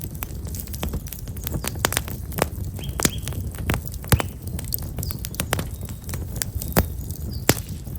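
Black locust firewood burning in a campfire, crackling with many irregular sharp pops. A small bird chirps briefly about three seconds in.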